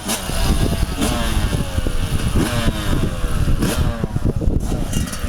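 Motocross bike engine revving, its pitch falling and rising several times.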